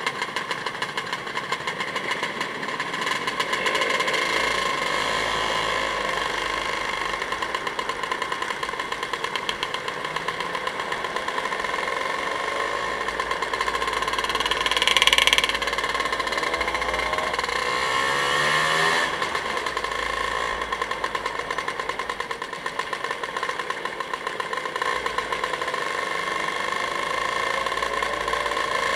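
Motorcycle engine running steadily on the move, with a fast, even pulse. About halfway through comes a short, louder rush of noise, and a few seconds later the engine note shifts up and down.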